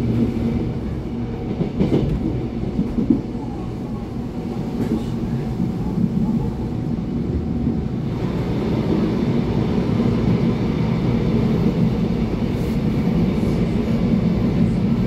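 Running noise inside a Taiwan Railway EMU700-series commuter electric multiple unit travelling at speed: a steady rumble of wheels on rail and running gear. There are a couple of short knocks a few seconds in, and the noise grows a little louder in the second half.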